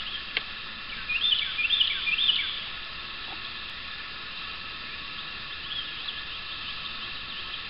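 A bird sings a short phrase of three or four quick whistled notes about a second in, with a few fainter notes later. Under it runs a steady outdoor hiss of background noise.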